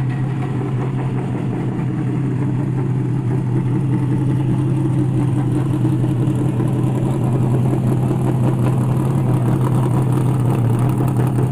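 A drag car's engine running at a loud, steady idle with a deep low note, growing a little louder about four seconds in.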